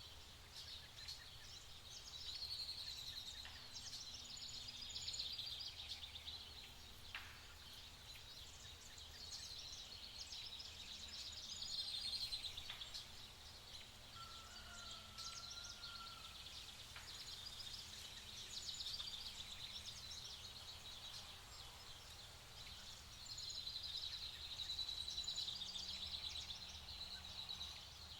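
Several small songbirds chirping and trilling in rapid, high, overlapping phrases, with one short lower whistled note about halfway through.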